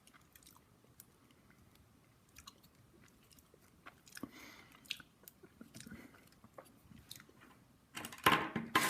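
Faint chewing of Kinder Surprise milk chocolate, with scattered small clicks and crunches; a voice starts near the end.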